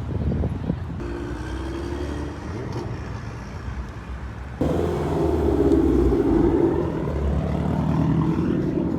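Car engines and exhaust running, then, after a sudden cut about halfway, a louder car engine accelerating, its pitch dipping and rising again.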